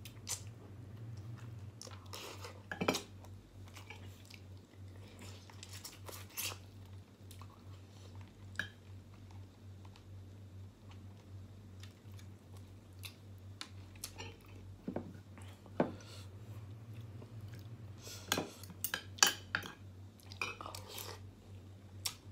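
Close-up chewing of chicken and rice, with a metal spoon and fork clicking against a glass dish every few seconds, over a steady low hum.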